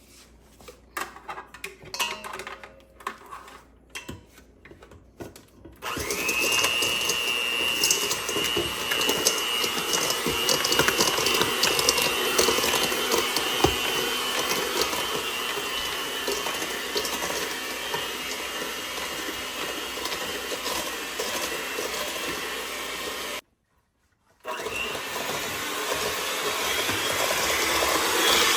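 Electric mixer creaming butter and sugar. A few clicks and knocks come first, then about six seconds in the motor starts and runs steadily with a high whine. It cuts out for about a second near the end and starts again.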